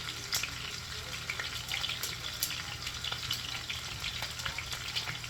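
Seasoned salmon frying in hot oil in a pan: a steady sizzle full of sharp crackles and pops, over a faint low hum.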